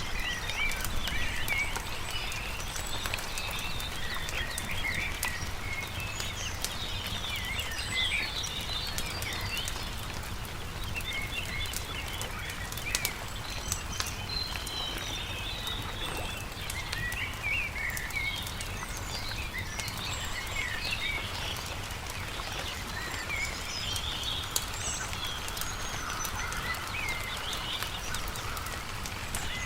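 Many small birds chirping and singing over the crackle and pops of a wood campfire, with a steady low rumble underneath.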